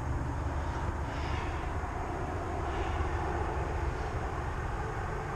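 Steady low rumble with a light hiss, unchanging throughout: outdoor background noise with no single clear source.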